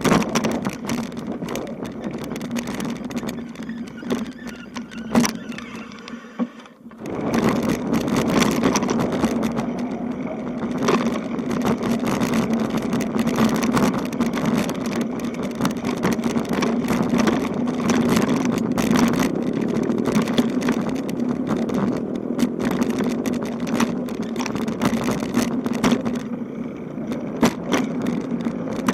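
Riding noise from a bicycle on a rough road: a steady hum with frequent clicks and rattles. The sound drops out briefly about six seconds in, then resumes.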